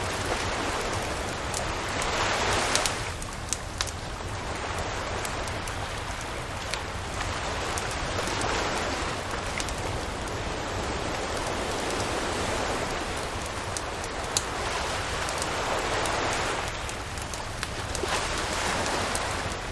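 Campfire crackling with scattered sharp pops over the wash of surf, with waves swelling in about every six to eight seconds and a steady low rumble beneath.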